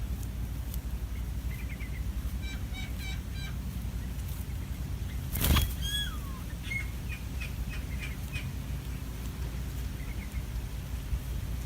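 Small birds chirping in short bursts over a steady low outdoor rumble. About five and a half seconds in there is a short loud rush of noise, followed by a whistled call that falls in pitch.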